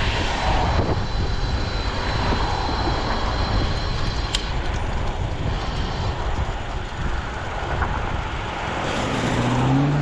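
Steady rush of wind over the microphone with road noise while riding an electric bike in traffic. Near the end, a car's engine rises in pitch as it accelerates close by.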